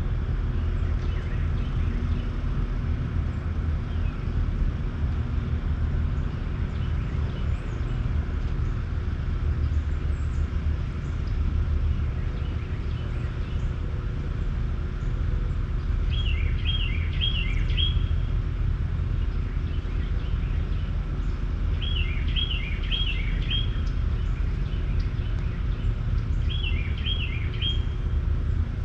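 Outdoor ambience with a steady low rumble, over which a songbird sings short phrases of quick, repeated high chirps, three times in the second half.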